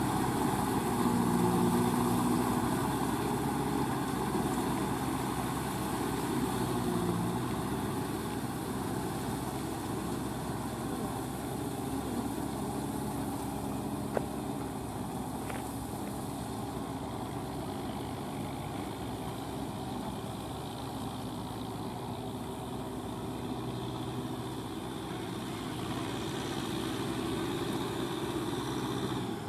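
Kubota M6040SU tractor's diesel engine running steadily while it tills a wet rice paddy, slowly getting quieter.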